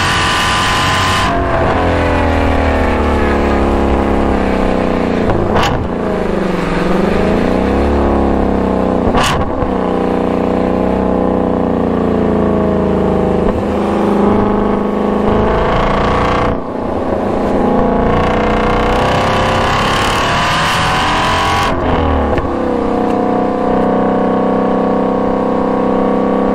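Shelby GT350's flat-plane-crank V8 through a GT350R exhaust, heard close to the tailpipe on track. Its pitch falls and climbs again and again as the car lifts, brakes and pulls through the gears, with two sharp cracks at about five and nine seconds. For the last few seconds it holds a steadier, lower note.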